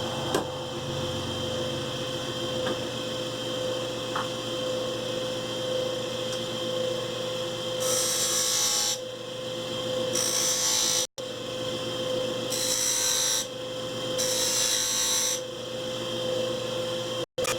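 Wood lathe running with a steady hum while a turning tool cuts the spinning wood, giving four short bursts of hissing in the second half. The sound drops out for an instant twice.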